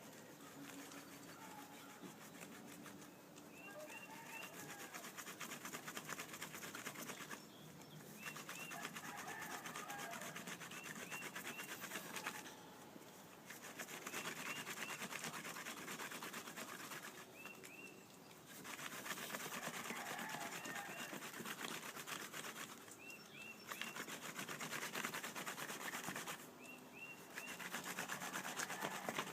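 Wooden spindle spun by a stick-and-rope bow drill, rubbing against the fire board in stretches of about four to five seconds with short pauses between: a friction fire-lighting attempt.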